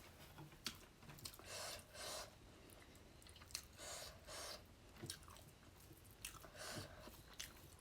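Faint close-miked chewing of a person eating fish curry: wet mouth clicks and smacks throughout, with three longer noisy bursts of chewing.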